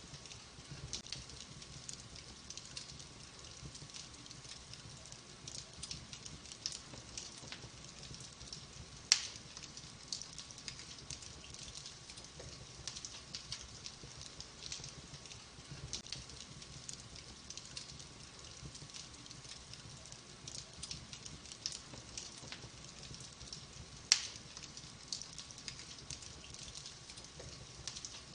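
Logs burning in a wood-burning fireplace, crackling: a steady stream of small crackles and ticks, with two sharp, louder pops about fifteen seconds apart.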